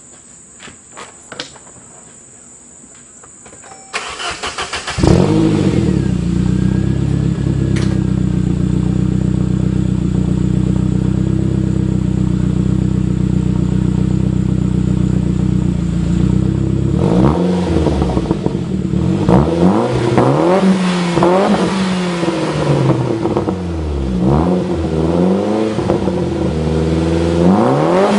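A 1995 Saab 900 turbo's engine, breathing through a full 3-inch turbo-back exhaust with a high-flow cat, two resonators and a side-exit pipe, cranks briefly about four seconds in, catches and settles into a steady idle. From about seventeen seconds it is revved in repeated blips, the pitch rising and falling each time.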